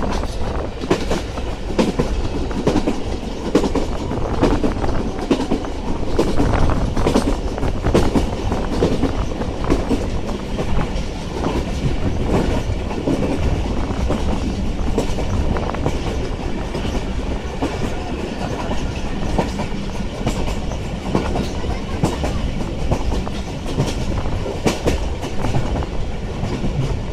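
Passenger train running along the line, heard from aboard: a steady rumble with many irregular clicks and clacks of the wheels passing over rail joints.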